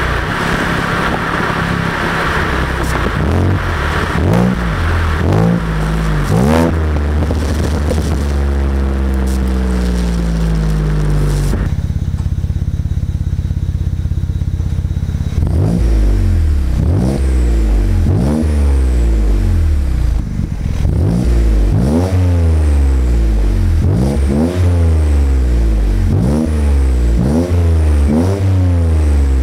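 BMW E90 335i turbocharged inline-six through an Autobahn Exotics exhaust with high-flow secondary cats and catless downpipes. The revs climb and fall several times, settle into a steady low drone around the middle, then rise sharply and drop again over and over, about once a second.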